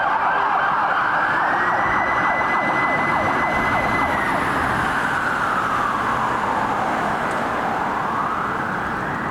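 Fire truck siren on a slow wail: it rises over a couple of seconds, holds high, falls slowly, then climbs again near the end. Faster short sweeping tones run beneath it.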